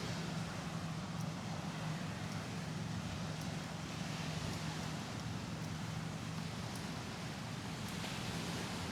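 Steady outdoor city ambience: a constant low hum of distant traffic under a wash of wind-like noise, with faint light ticks about once a second.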